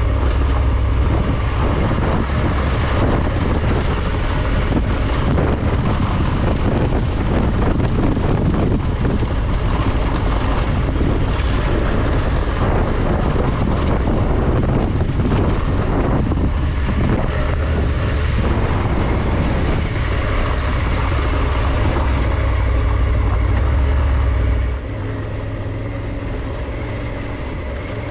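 Triumph Tiger 900 GT's three-cylinder engine running on the move, with wind rush on the microphone. The level drops suddenly near the end.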